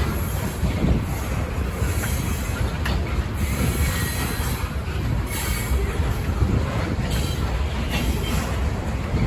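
Freight train rolling past, a steady rumble of wheels on rail with a faint high wheel squeal at times.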